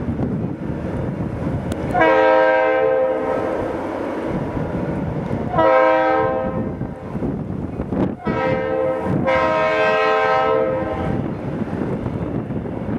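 Leslie RS3L three-chime locomotive air horn sounding three blasts, the first and last long and the middle one shorter, over the low rumble of the passing train.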